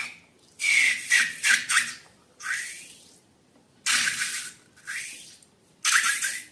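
Slime being squeezed and squished by hand, in about six irregular wet, squelching bursts with air squirting out, each lasting under half a second.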